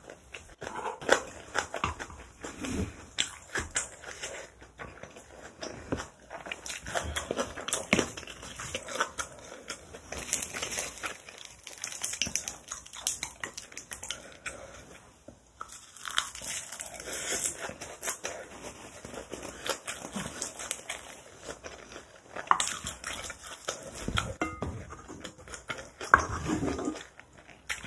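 Close-miked chewing and mouth sounds of a person eating spicy kimchi bibimbap, with many irregular small clicks and crunches.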